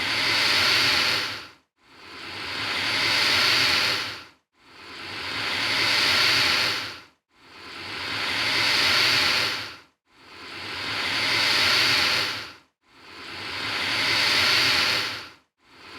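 Alligator hissing: a breathy hiss repeated at even intervals of a little under three seconds, about six times. Each hiss swells and then cuts off sharply, with a short silent gap before the next.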